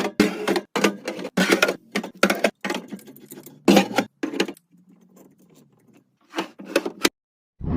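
A quick run of clicks, knocks and clatter as containers are handled and set down, thinning out after about four seconds, with a faint steady low hum underneath and a single low thud at the end.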